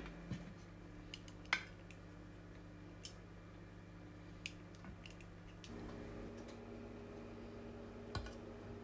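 Scattered light clicks and knocks of kitchen handling over a steady appliance hum, which shifts to a different pitch a little past halfway through.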